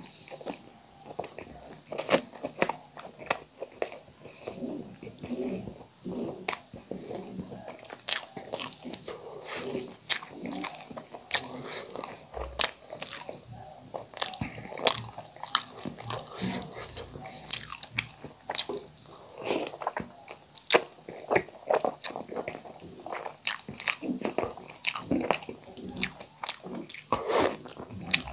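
Close-miked mouth sounds of a person eating noodle soup and boiled egg: wet chewing with many sharp, irregular smacks and clicks, going on without a break.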